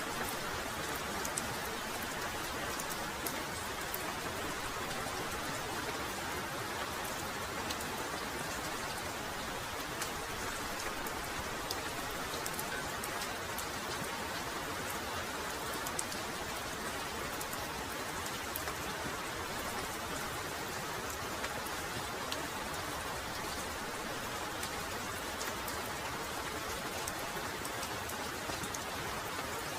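Heavy rain falling steadily, with single drops ticking sharply here and there over the continuous hiss.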